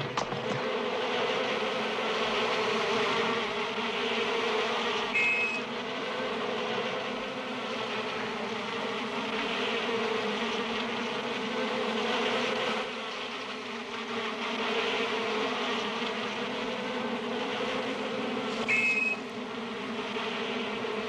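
A swarm of bees buzzing steadily and densely around their beehive as it is raided. A brief high chirp sounds twice, about five seconds in and near the end.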